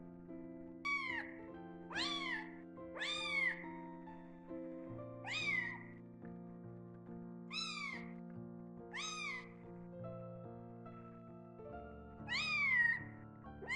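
Kitten meowing over and over, short calls about every one to two seconds, each rising then falling in pitch, with soft background music underneath.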